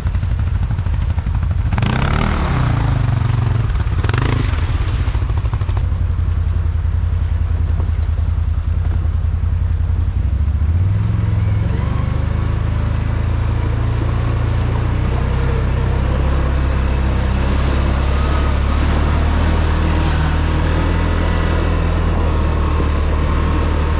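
ATV engine running under throttle, revving up briefly twice in the first few seconds, then climbing again about halfway through and holding a steady drone.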